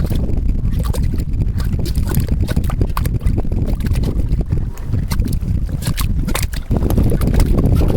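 Geothermal mud pot bubbling: thick mud gurgling, with bubbles bursting in irregular pops over a constant low rumble.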